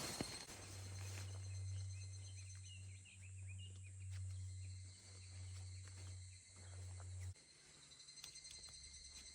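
Insects shrilling steadily, with a few short bird chirps a few seconds in. Over them runs a low steady hum that starts about half a second in, dips briefly a few times and cuts off suddenly about three quarters of the way through.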